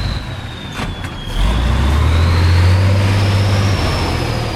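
Heavy off-road competition truck's diesel engine revving hard under load, swelling about a second and a half in and easing off near the end, with a thin high whine that rises and then slowly falls.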